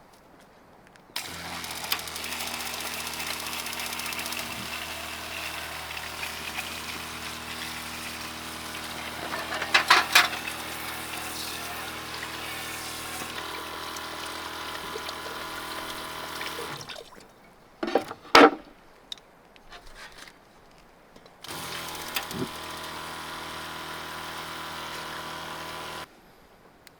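A small water pump humming with water flowing. It cuts out about two-thirds of the way through, a few sharp clicks follow, and then it runs again briefly near the end.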